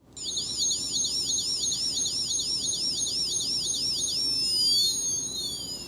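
LEGO light-and-sound brick sounding its electronic siren: a high warbling wail, about three sweeps a second, that slows to a long gliding tone and fades out near the end. It sounds like a shop's anti-theft alarm.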